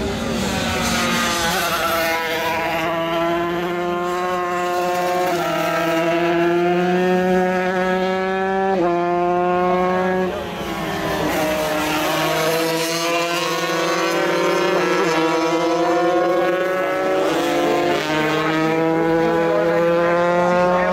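125cc racing motorcycles running at full throttle, engine pitch climbing and then dropping sharply at gear changes about five and nine seconds in, with more than one engine heard at once.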